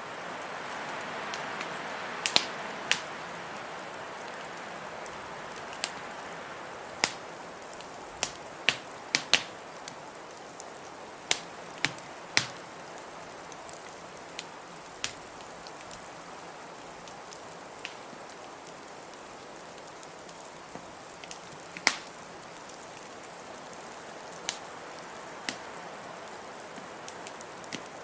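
Wood fire crackling, with sharp, irregular pops a second or two apart, over a steady hiss of blizzard wind that swells briefly in the first few seconds.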